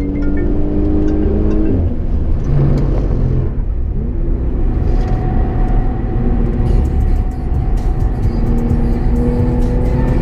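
In-cabin engine and road noise from an Audi S4's supercharged V6 at track pace, the revs rising and falling, with background music laid over it.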